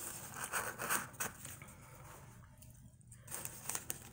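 Crunchy fried food being chewed close to the microphone, a crackling crunch in the first second or so, then quieter, with a few small clicks about three and a half seconds in.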